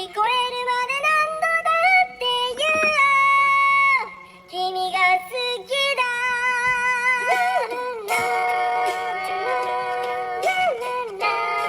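A song melody made of pitch-shifted cat meows, strung into short notes with slides and a few held tones over backing music.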